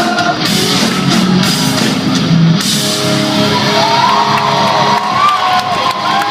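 Pop-punk band playing live in a large hall: loud electric guitars and drums, with a shout or two.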